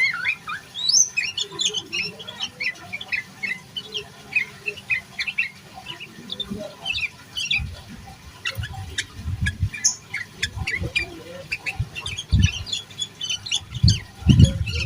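Yellow-vented bulbul (trucukan) singing a fast, busy run of short chirps and slurred notes without pause. Low thuds come in now and then in the second half.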